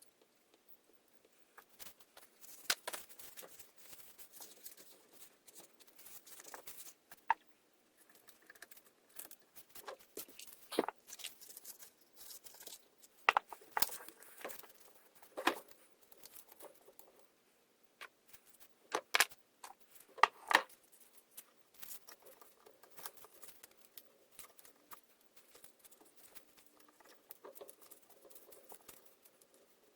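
Irregular light clicks, taps and rustling from small parts and tools being handled by hand, with a few sharper clicks in the middle.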